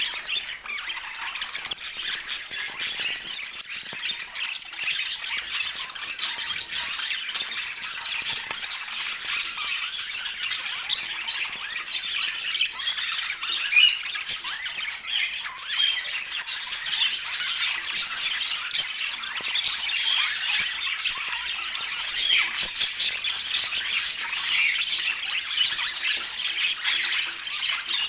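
Budgerigars chattering: many short chirps and squawks overlapping without a break.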